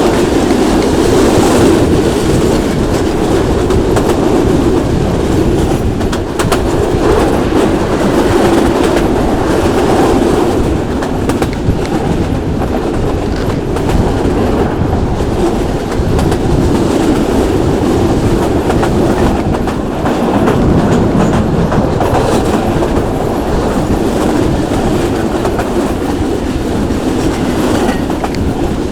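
Local passenger train running along the track: a steady rumble of the wheels and carriages, with the clickety-clack of the wheels over rail joints.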